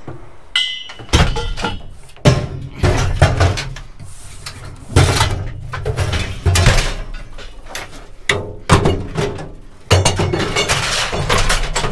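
Scrap metal being handled and dropped into a steel box: a long run of loud bangs, clanks and clatter, with a short metallic ring about half a second in.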